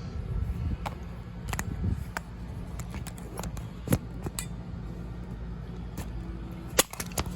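Scattered small clicks and knocks, the sharpest about four seconds in and again near the end, over a steady low hum.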